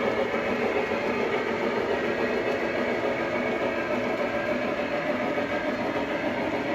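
Lionel Legacy O-scale consolidation steam locomotive model running on the track: a steady rolling rumble.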